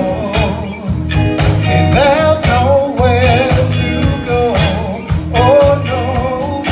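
Live Motown-style soul band playing a song: a singer holds wavering notes over bass, guitar and a steady drum beat.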